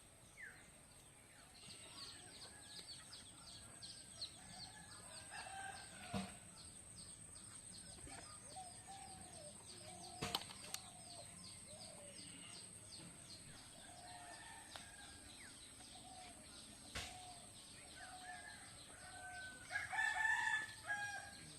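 Chickens clucking in a run of short, repeated calls, with a louder rooster crow near the end, a few sharp knocks in between.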